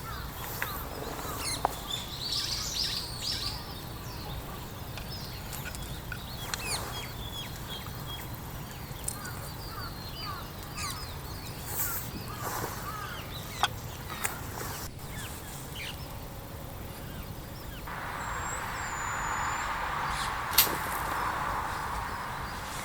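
Outdoor ambience with small birds chirping and calling on and off, over a steady low rumble and scattered sharp clicks. About three-quarters of the way in, a steady hiss starts and continues to the end, with one louder click during it.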